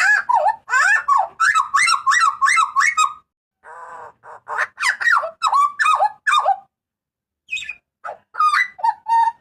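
Hooded butcherbird (jagal papua) calling loudly: fast runs of sharp repeated notes, each sliding down in pitch, in three bursts with short pauses between.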